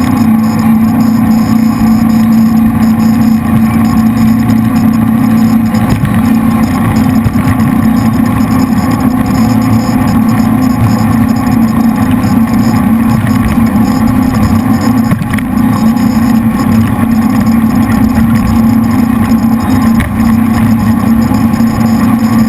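Jet boat's V8 engines running steadily at speed, a loud constant drone with no change in pitch.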